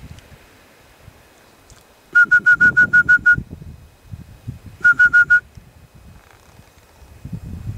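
A bird in a tree calling: a quick run of about eight short whistled notes on one pitch, then four more a second and a half later, over wind rumble on the microphone.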